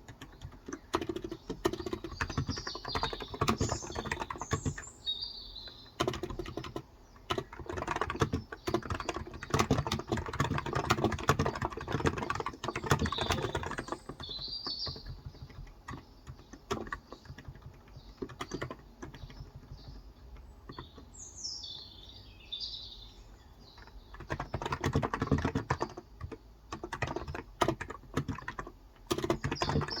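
Typing on a Cox Endeavor electrostatic capacitive (non-contact) keyboard with 35 g switches: rapid key clicks in bursts with short pauses. Birds chirp in the background a few times.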